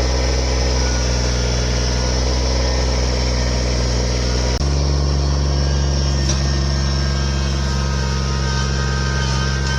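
An engine running steadily with a low, even hum; about halfway through, the pitch of the hum changes abruptly.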